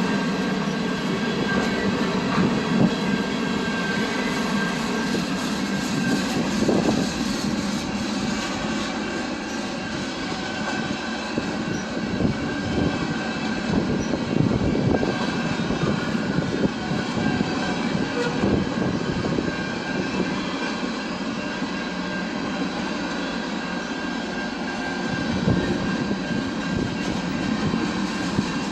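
A train passing on the tracks, its wheels running steadily on the rails with a continuous rumble.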